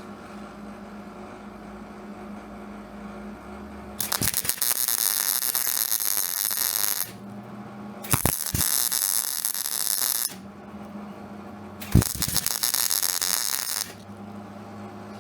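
MIG welder arc crackling in three bursts of about two to three seconds each, laying short welds, with a sharp click as each arc strikes. A steady low hum sounds between the bursts.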